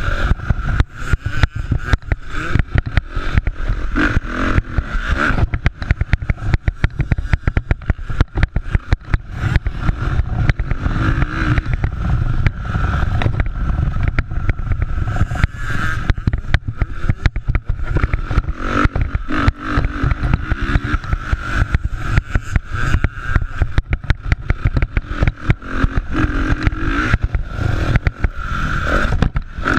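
Motocross motorcycles racing, engines revving up and down, over heavy rumble and crackle on the microphone.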